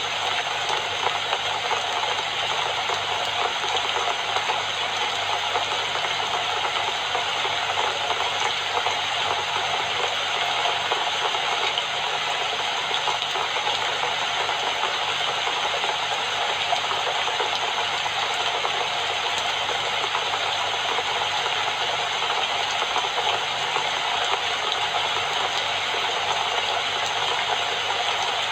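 Steady rain falling, an even hiss with no breaks or changes, over a faint low hum.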